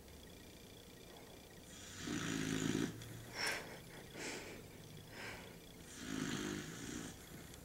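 A sleeping dog snoring: two drawn-out snores about four seconds apart, with a few short breaths between them.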